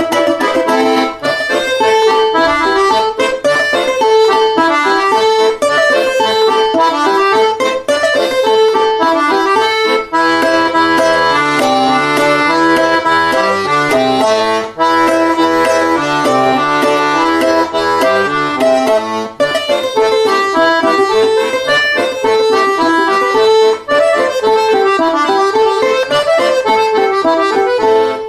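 Accordion playing a fast, busy melody, with a lower bass line added from about ten seconds in until about nineteen seconds.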